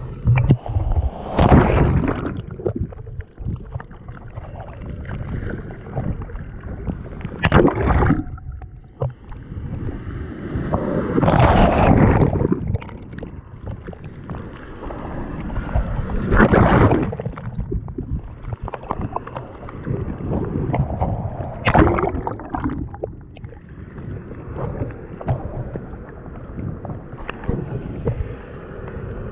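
Boat moving across open water: a steady rushing of water and wind, with loud surges every few seconds.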